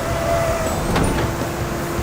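Steady low rumble of idling truck engines, with a faint click about a second in and a steady hum after it.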